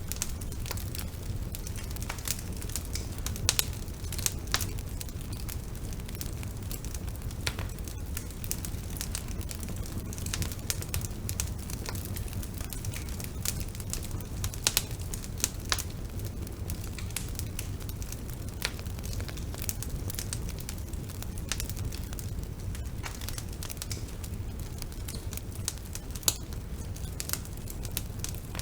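Wood fire burning: a steady low rumble of flames with frequent irregular sharp crackles and pops from the burning wood.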